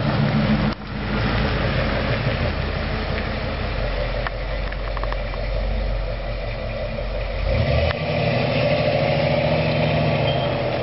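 Car engine running steadily. Its sound shifts once, about two-thirds of the way through.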